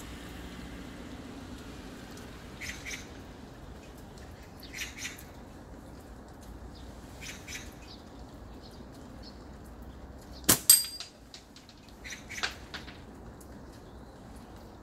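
Short bird chirps every couple of seconds over a steady hiss of rain. About ten and a half seconds in comes a single sharp metallic clink with a brief ring, the loudest sound.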